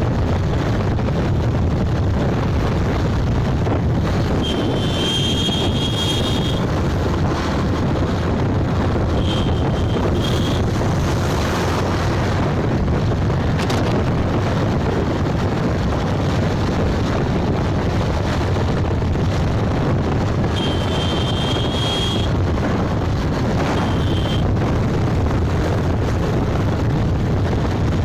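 Wind rushing over the microphone with road and engine noise while riding a motorbike, steady throughout. Short high-pitched beeps sound four times: for a second or two at a time, twice within the first ten seconds and twice near the end.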